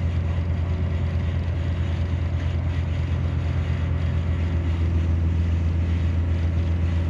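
A large engine running steadily, a low, even drone with no change in speed.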